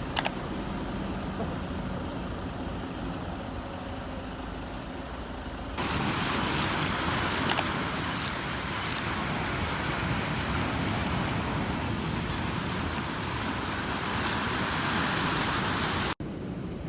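Steady rumble and hiss of a moving vehicle, with no voices. About six seconds in it cuts to a louder, brighter rush of noise that runs on until it breaks off sharply near the end.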